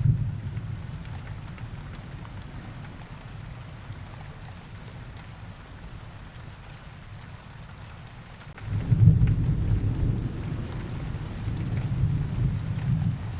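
Rain with thunder: a low rumble of thunder fades over the first few seconds, then a second rumble breaks in abruptly about nine seconds in and rolls on until near the end, over steady rain.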